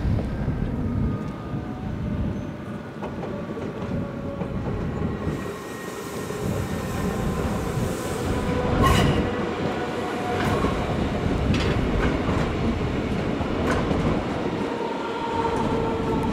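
A passenger train running slowly through the station, with a steady rumble and a high whine. Its wheels click sharply over rail joints and points several times in the second half, and there is a short hiss of air near the middle.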